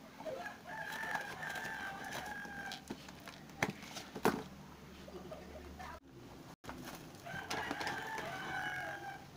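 A bird's long, drawn-out call, heard twice at about two seconds each, once near the start and once near the end. Between the calls come a few sharp clicks as the parcel's packing tape and cardboard are handled.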